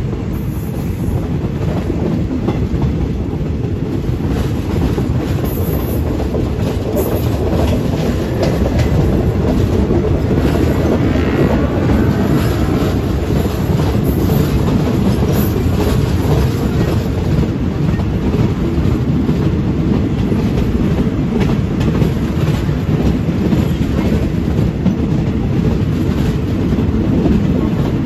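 Wheels of a State Railway of Thailand passenger train running on the rails, heard from the moving carriage: a steady rumble with clickety-clack, and a brief faint squeal about eleven seconds in.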